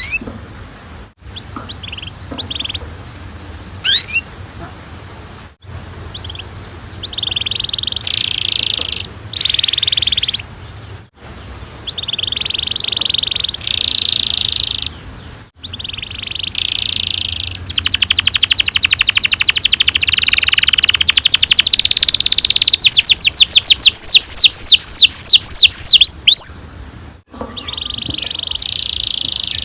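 Domestic canary singing: a few short chirps and rising notes, then loud rolled phrases, building to a long, fast rolling trill that ends in a run of quick sweeping notes, and another roll just before the end.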